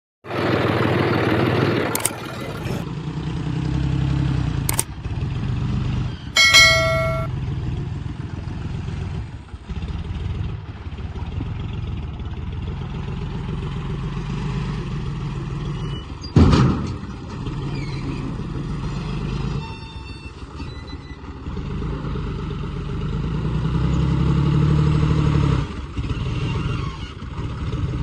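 A heavy machine's engine running steadily and revving up for a few seconds near the end. About six and a half seconds in there is a short horn-like beep, and around sixteen seconds a single loud knock.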